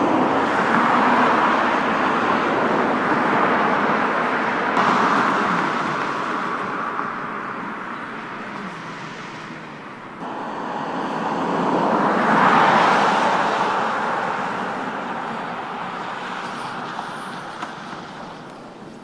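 Road traffic: passing cars. One is loud at the start and fades away, and a second swells to its loudest about twelve seconds in, then fades.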